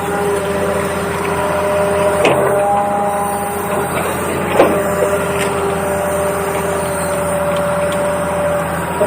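Small electric gear motors of a toy RC excavator whining steadily, their pitch shifting now and then, with a couple of sharp clicks or knocks, one about two seconds in and one about four and a half seconds in.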